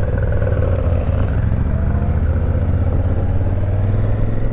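Honda Africa Twin CRF1000L's parallel-twin engine running under way, a steady low hum whose pitch rises slowly as the bike picks up speed.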